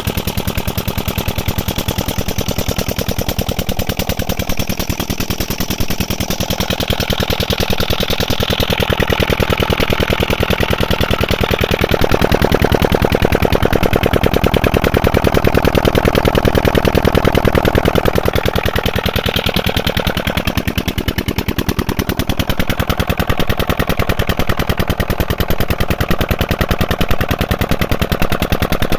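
Old diesel engine driving a tubewell water pump, running steadily with a fast, even chugging beat. It grows louder for several seconds in the middle, then settles back.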